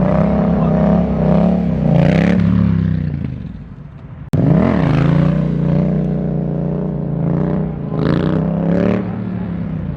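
Modified car's engine held at steady high revs, fading and then cutting off abruptly about four seconds in. It comes back with a quick rev up and down and holds steady high revs again, with a few short noisy bursts.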